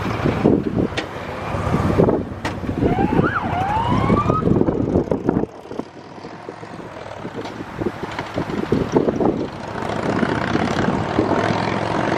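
Fire apparatus passing with a loud, rough rumble and buffeting on the microphone; about three seconds in, a siren sweeps quickly up in pitch twice, the first sweep dropping back before the second climbs.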